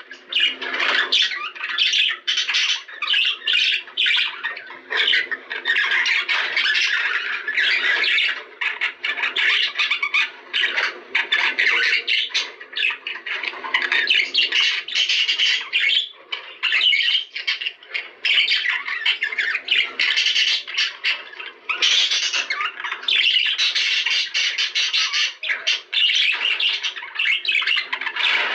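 Budgerigars chattering and squawking without a pause, many short chirps overlapping.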